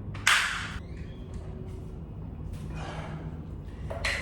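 A person's sharp, noisy breath about a quarter second in, followed by fainter breathing.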